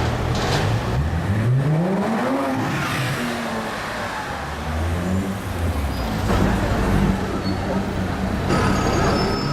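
Car engine revving hard, its pitch climbing steeply for about two seconds and then dropping back, followed by steady engine running.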